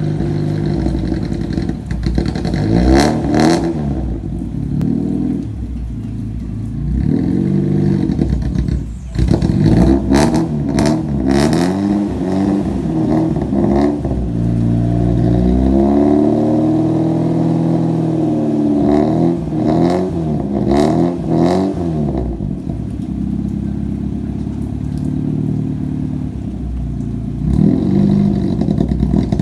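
Mitsubishi Sigma's Sirius four-cylinder engine, just started after standing, revved up and down over and over, with a long held rev near the middle and short crackles between blips.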